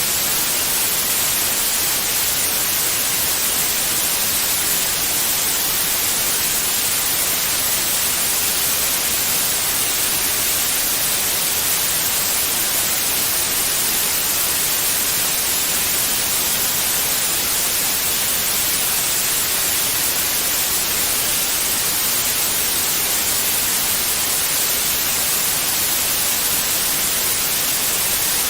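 Steady white noise: an even, unchanging hiss, strongest in the high pitches.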